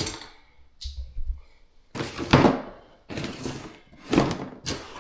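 A series of dull thunks and knocks, several sharp ones from about two seconds in, after a quieter start with a faint low rumble.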